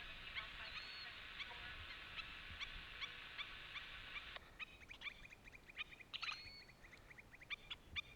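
Many birds calling at once: a dense chorus of short, sharp calls that thins about four seconds in to separate sharp notes, several a second.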